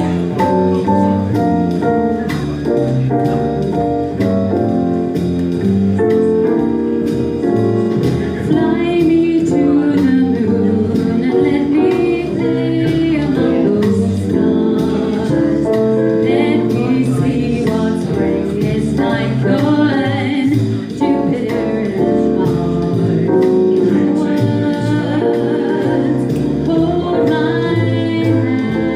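Singing with instrumental accompaniment, a song performed by a vocal duo.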